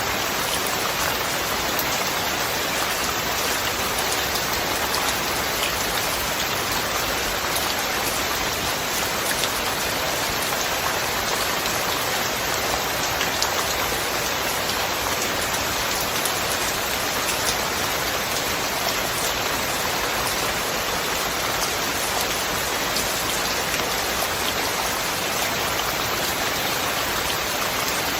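Steady rain falling, an even hiss with many small drop hits scattered through it.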